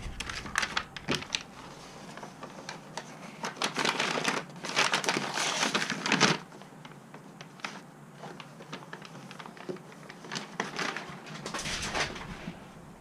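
Killmat butyl sound-deadening sheets and their paper backing crinkling and tapping as they are handled and fitted to the van's metal panels: a scatter of sharp clicks, with a longer rustle a little before the middle and another near the end.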